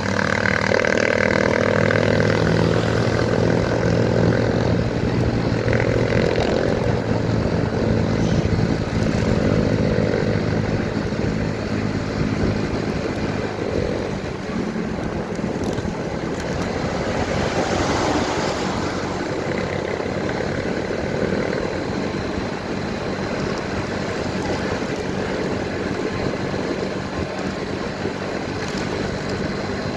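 Motorcycle engine running while riding, with steady wind and road noise across the microphone.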